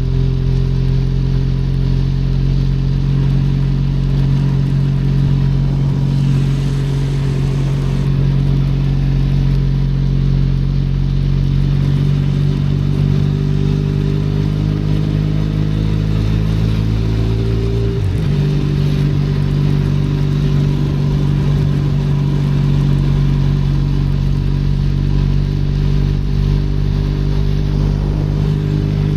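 Benelli Leoncino 500's parallel-twin engine running under way in the rain, heard from the rider's position, with a steady hiss of rain and air noise. Its pitch climbs slowly through the middle, then drops suddenly about two-thirds of the way through and settles steady again.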